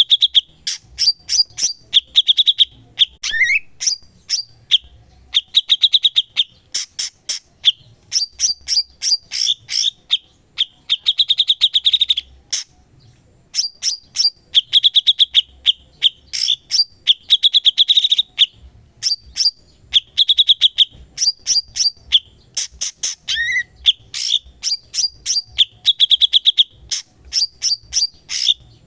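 A cucak cungkok songbird singing continuously in full song, its phrases of rapid sharp chirps alternating with short buzzy trills, repeating every second or two with a brief pause about halfway through.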